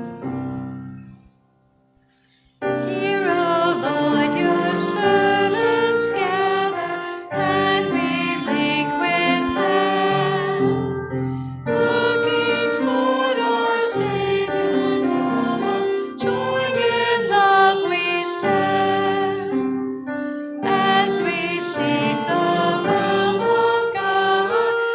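A hymn sung with piano accompaniment. A closing chord dies away near the start, there is a brief pause, and then the singing starts at about two and a half seconds. It goes on in phrases about four seconds long with short breaths between them.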